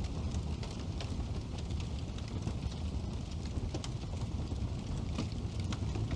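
Wood fire burning in a fireplace: a steady low rumble of the flames with frequent irregular crackles and small pops of the burning logs.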